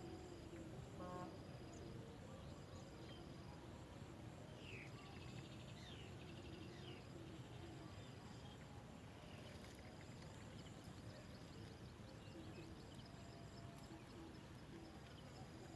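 Faint outdoor ambience: an insect's high, even tone repeating in short pulses about once a second, with a few faint chirps around the middle.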